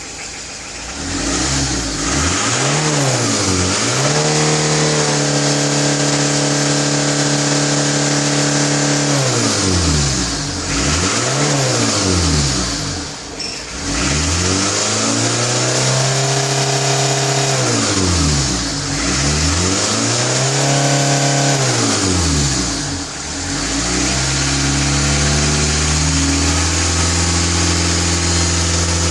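Car engine being revved repeatedly: the revs climb, are held for a few seconds, then drop back, several times over, before settling to a steady run near the end.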